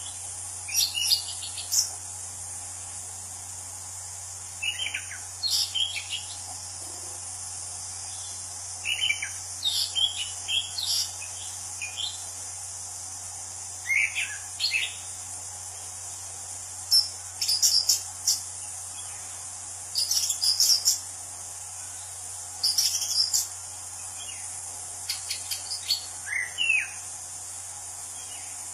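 Anis Cendana thrush singing: short, varied phrases of sharp, sweeping notes, repeated every second or two, over a steady high background hiss.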